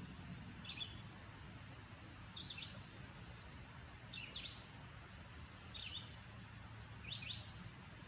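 A songbird calling: a short, high chirp repeated five times, about every one and a half seconds, over a faint steady background hiss.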